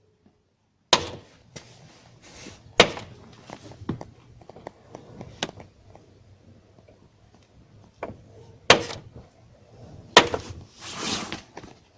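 Honda CR-V car door being opened and shut several times, giving sharp clicks and knocks from the door check and latch. The loudest knocks come about a second in, near three seconds, and twice near the end, with a rougher rattling burst just before the end.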